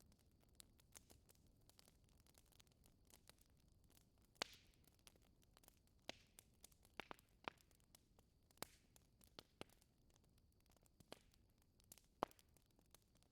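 Wood fire crackling in a fireplace: irregular sharp snaps and pops over a faint hiss, the two loudest about four seconds in and near the end.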